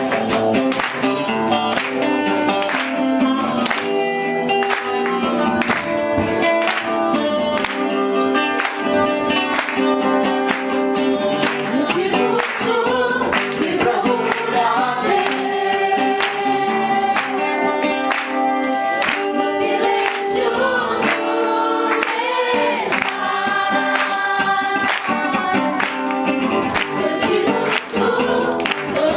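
Gospel worship song: a group of voices singing together over instruments with a steady rhythmic beat.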